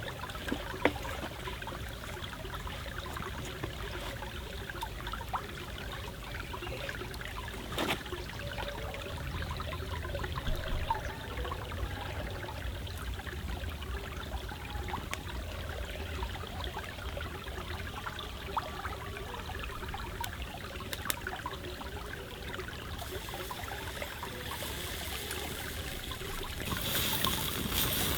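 Forest stream trickling and flowing steadily, with scattered small clicks and pops. A louder, brighter hiss comes in near the end.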